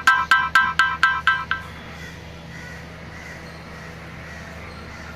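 Electronic ringtone beeping in rapid, even pulses of one repeated pitch, about five or six a second, cutting off about a second and a half in; after that only a faint steady background hum.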